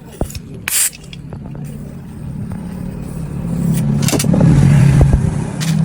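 An engine hum that grows steadily louder over several seconds and peaks near the end. Short scraping hisses come about a second in, at about four seconds and near the end.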